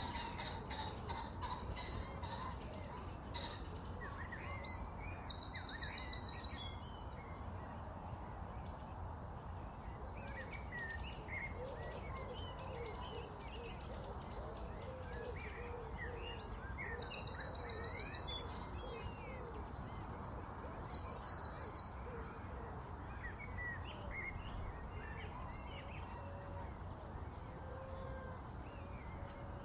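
Many wild birds chirping and calling over a steady background hiss, with a few rapid, high buzzy trills of a second or two each.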